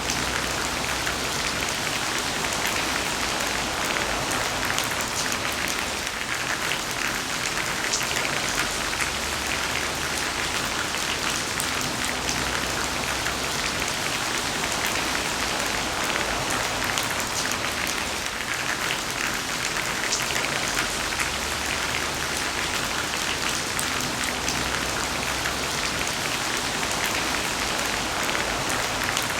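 Steady heavy rain falling, a dense hiss of drops with many small individual ticks of drops striking a surface.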